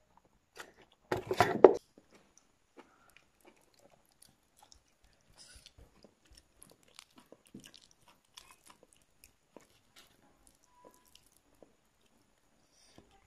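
Close-up chewing and wet mouth clicks of a person eating rice and curry by hand, with one loud crunching bite about a second in. Faint scattered chewing clicks follow.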